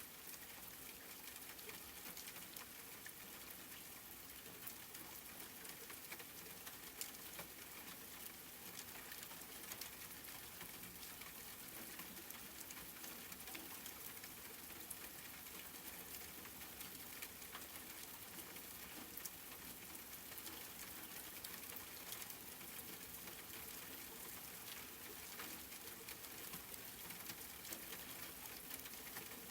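Steady rain falling and pattering on a surface, with many small drop ticks over an even hiss.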